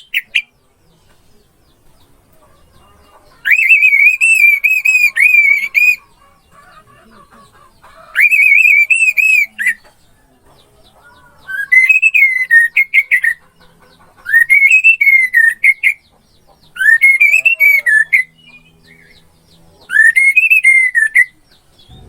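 Orange-headed thrush singing: six separate whistled song phrases, each a second or two long with short pauses between. Each phrase warbles rapidly around one clear pitch.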